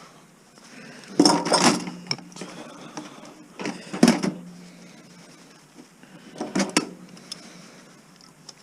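Metal parts and tools clattering and knocking as an electronics chassis is taken apart, in three short bouts: about a second in, about four seconds in and about six and a half seconds in.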